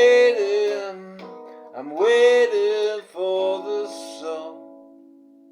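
Closing bars of a song: a male voice sings two rising, held notes about two seconds apart over a Stratocaster-copy guitar, and the last guitar chord rings on and fades out.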